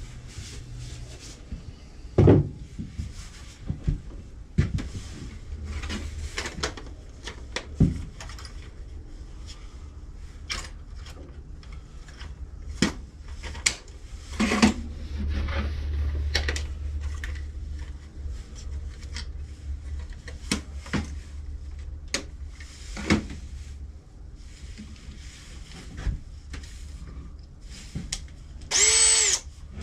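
Irregular knocks, taps and rubbing of wood pieces and tools being handled at a workbench, over a low steady hum. Near the end a power drill whirs briefly.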